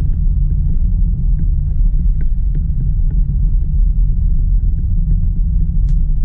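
Steady low rumble of tyre and road noise inside a Tesla's cabin, driving on a wet road in heavy rain, with a few faint ticks and one sharper tick near the end.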